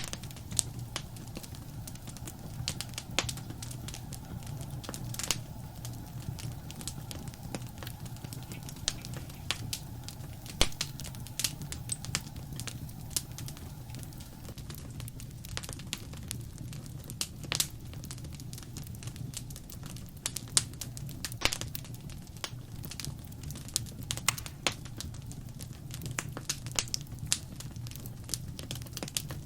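Wood fire crackling in a fireplace: irregular sharp pops and snaps, a few of them much louder, over a steady low rumble of the flames.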